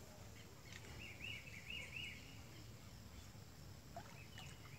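Faint bird calls: a quick run of four or five short arched chirps about a second in, and a few more scattered chirps near the end, over a low steady outdoor background rumble.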